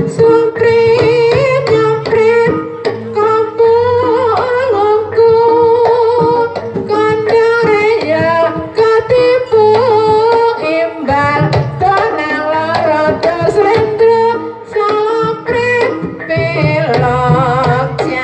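Javanese jaranan (kuda lumping) accompaniment music: a singer's wavering vocal line over kendang hand drums and gamelan-style percussion.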